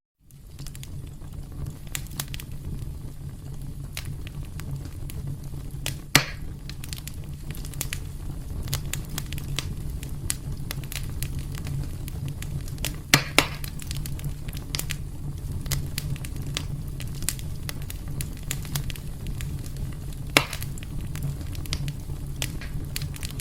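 Wood fire burning in a fireplace: a steady low rumble of flames under a constant scatter of small crackles, with a few louder pops, one about six seconds in, two close together around thirteen seconds, and one near twenty seconds. The sound drops out for a moment at the very start and fades back in.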